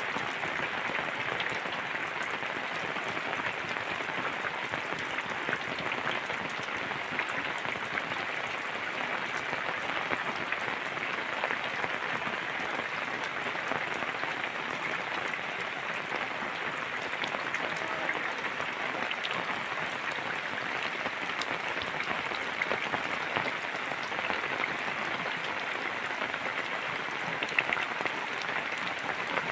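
Rain falling steadily, a dense, even patter of countless drops.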